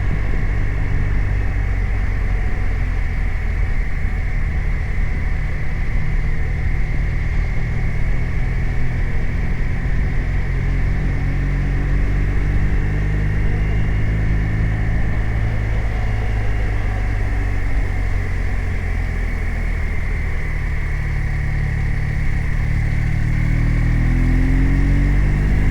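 BMW R 1250 RT's 1254 cc boxer twin running steadily under way, its pitch climbing over the last few seconds as the bike accelerates.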